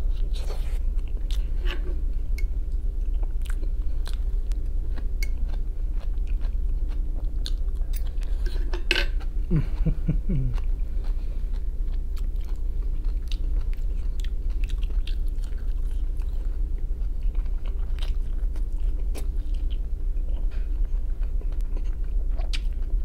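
Close-up chewing and wet mouth clicks of a person eating boiled potato and fried capelin, over a steady low hum.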